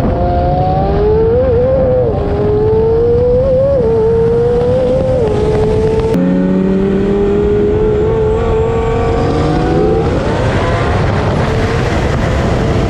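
High-performance car engine pulling hard at full throttle, its pitch climbing and dropping back with each upshift, several times.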